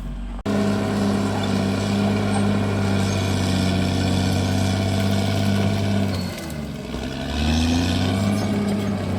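Diesel engine of a CAT D6R XL bulldozer running steadily, coming in suddenly about half a second in. About six seconds in the revs drop, then climb back up a second or so later.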